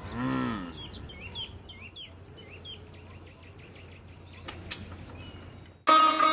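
A short, loud call that rises and falls in pitch, then a bird chirping in a run of quick, hooked notes. Two clicks come later, and loud music with a plucked string instrument starts near the end.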